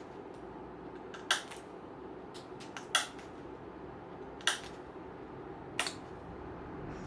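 Four sharp metallic clicks, about one every second and a half, from metal hand tools working on a wooden chair frame, over a steady low hum.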